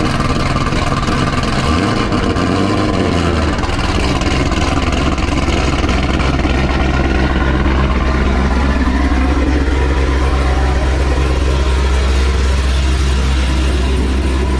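Chevrolet Camaro ZL1's supercharged 6.2-litre V8 idling after a cold start. The idle speed shifts in the first few seconds, then holds steady.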